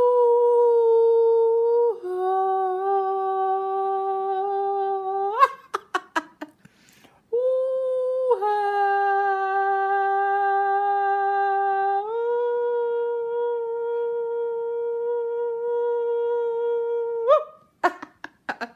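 Humming in two long phrases of steady held notes, each stepping in pitch a couple of times and ending with a short upward slide. Between the phrases, about five to seven seconds in, there are a few brief clicks.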